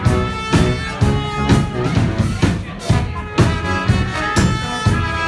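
Live brass band playing with a drum kit, horns holding stacked notes over a steady beat of about two drum hits a second.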